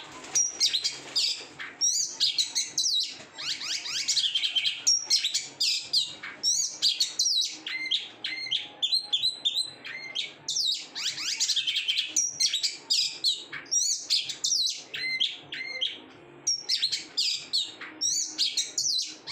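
Oriental magpie-robin (kacer) singing a long, unbroken stream of rapid, varied whistles and chirps, packed with borrowed 'isian' phrases, with a brief lull near the end.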